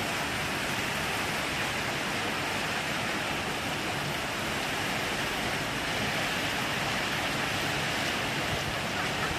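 Heavy rain pouring down steadily: an even, unbroken hiss of falling water.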